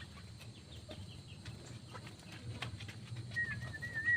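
Aviary birds: scattered faint chirps and ticks, then a wavering whistled call starting about three seconds in and lasting over a second.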